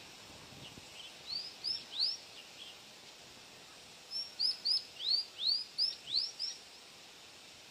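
A mantenan gunung songbird singing two phrases of quick, high whistled notes that each sweep down in pitch: three notes a little over a second in, then a run of about eight near the middle. A steady hiss runs beneath.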